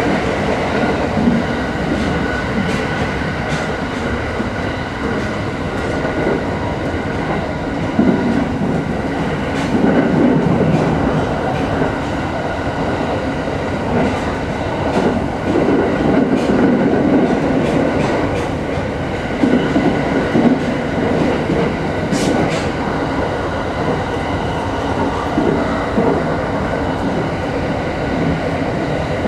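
E217 series electric train running at speed, heard from inside the front car behind the driver's cab: a steady rumble of wheels on rails, with occasional sharp clicks from rail joints.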